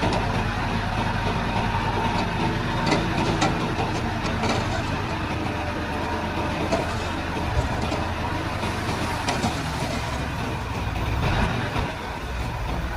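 Komatsu D31-P crawler bulldozer's diesel engine running steadily as it works, with a few sharp metallic clanks.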